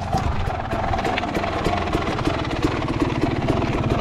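Dirt bike engine idling steadily, with a rapid, even putter.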